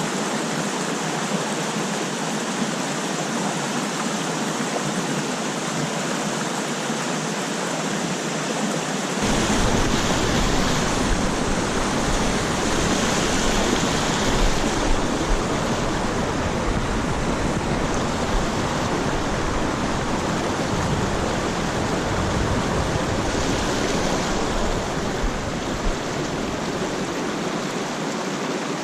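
Mountain stream rushing over rocks: a steady, even rush of water. About nine seconds in, a low rumble joins it and lasts until just before the end.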